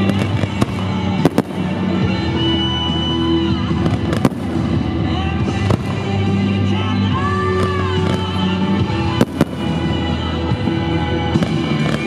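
Fireworks display: several sharp bangs at irregular intervals over music.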